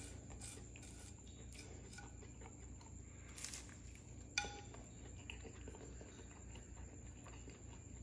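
Faint biting and chewing of a cheese quesadilla in a flour tortilla, with a few small clicks and one sharper tick a little past halfway, over a low steady room hum.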